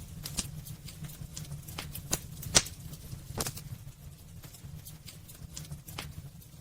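Wood fire burning in a fireplace, crackling with irregular pops and snaps over a low steady rumble; the sharpest pop comes about two and a half seconds in.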